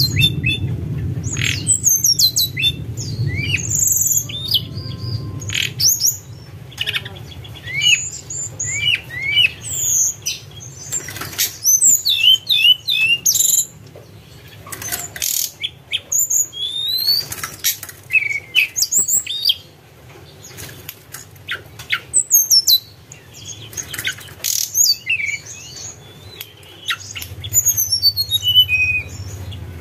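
Tledekan gunung singing its fluting song: a busy run of short, high whistles and chirps, sliding up and down, with brief pauses, over a steady low hum.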